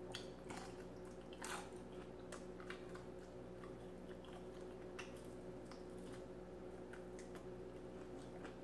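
Faint wet clicks and smacks of someone chewing fried chicken wings, scattered irregularly over a faint steady hum, the clearest about a second and a half in.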